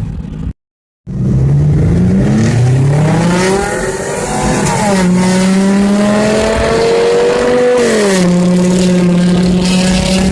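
Car engine accelerating, its pitch climbing steadily for several seconds, then holding at a steady cruise; a brief rise and drop in pitch just before the end marks a gear change. The sound cuts in after a half-second gap near the start.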